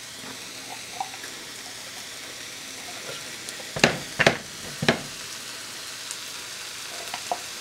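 Steady sizzle of mushrooms and onions sautéing in a pot, with a few sharp knocks of a spoon against the can and bowl about four to five seconds in as thick condensed cream of mushroom soup is scooped out.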